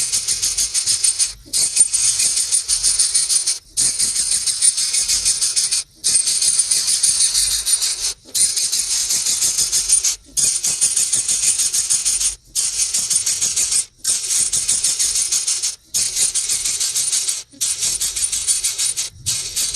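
A small bird's high, dry rattling chatter, repeated in phrases of about two seconds with short breaks between them. This is the call of the female burung tikus.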